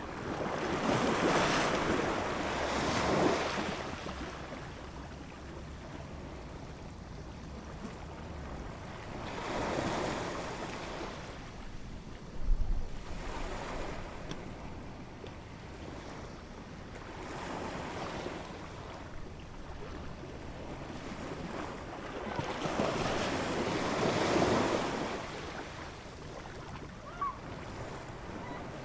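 Ocean waves washing in and drawing back, swelling four times in slow surges roughly every seven or eight seconds. A brief low thump about twelve seconds in.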